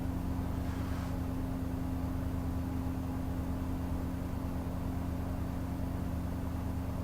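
Milling machine's electric motor running steadily: an even, low hum.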